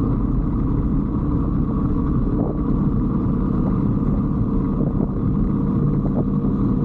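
125cc Brixton motorcycle's engine running steadily while riding along a road, with a low, even rumble of wind and road noise.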